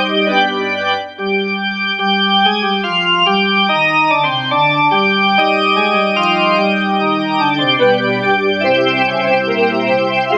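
Electronic organ played through a portable Leslie rotary speaker, its original CTS 8-inch driver run by a small guitar amp chassis. Sustained organ chords change every second or so, with a short break about a second in.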